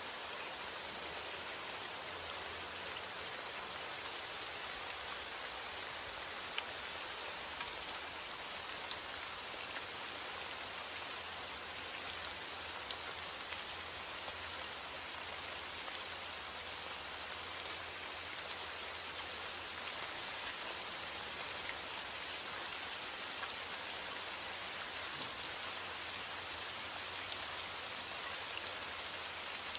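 Steady rain falling on a surface, a dense even hiss with many small scattered drop ticks.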